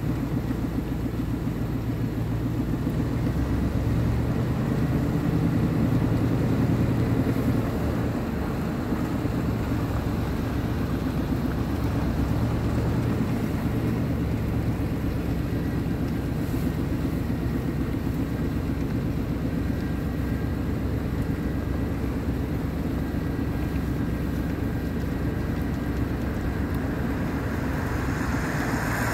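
Steady engine and tyre road noise heard from inside a moving car's cabin.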